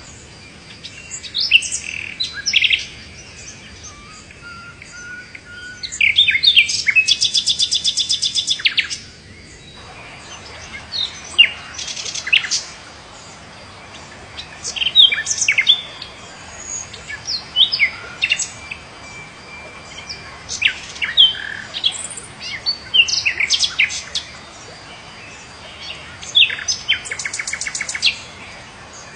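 Wild birds calling: scattered short chirps and whistles from several birds, with a fast rattling trill that comes twice, once early on and again near the end.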